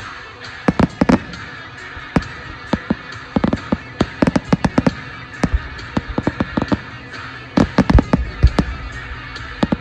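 Fireworks going off: rapid, irregular pops and bangs in clusters of several cracks at a time, the biggest bursts about three-quarters of a second in and again near eight seconds.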